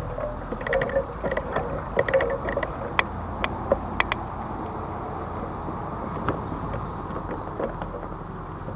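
Hobie Pro Angler kayak moving on a creek: steady water and wind noise, with scattered clicks and knocks from the hull and gear, the sharpest few in the first half.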